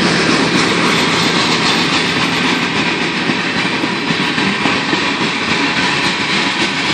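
CSX freight grain train's cars rolling past close by: a loud, steady rumble with the clatter of wheels over rail joints.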